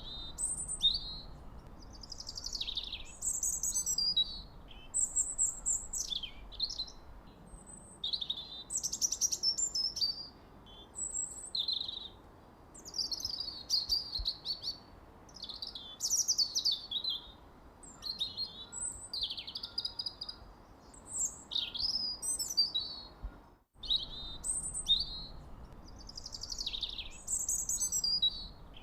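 Songbirds chirping in a steady run of quick, high-pitched chirps and trills, many sliding down in pitch, over a faint steady hiss. The sound breaks off for an instant once, most of the way through.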